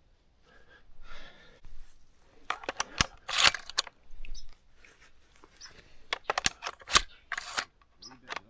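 Scattered sharp clicks and short rustling, crunching sounds. The two loudest clicks come about three seconds in and again near seven seconds.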